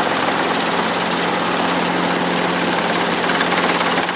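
Helicopter engine and rotor noise, a steady drone with a low hum, as the aircraft holds a hover.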